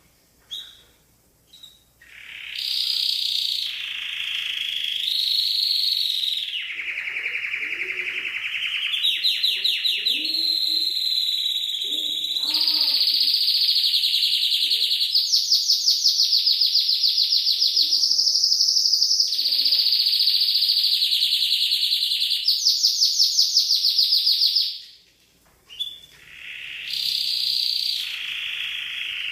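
Domestic canary singing a long, continuous song of high chirps and rapid rolling trills, breaking off briefly near the end and then starting again.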